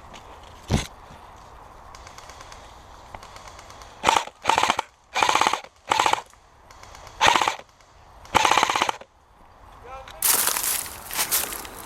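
Airsoft guns firing in short automatic bursts, each a rapid rattle of shots. There is one brief burst about a second in, then six bursts of about half a second each in quick succession, and a longer ragged stretch of noise near the end.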